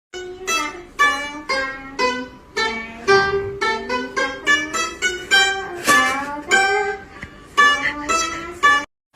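A tune played on a plucked string instrument: single notes about two a second, each ringing and fading, some sliding in pitch. It cuts off abruptly near the end.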